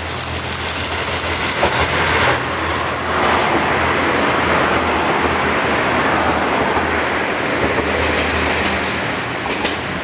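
Kashima Rinkai Railway 6000 series diesel railcars passing, with a steady diesel engine hum and a loud rush of running noise. A rapid run of clicks comes in the first two seconds.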